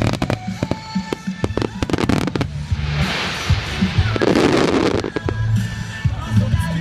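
Aerial fireworks shells bursting in a rapid series of sharp bangs, then a dense crackling for about two seconds, with music playing underneath.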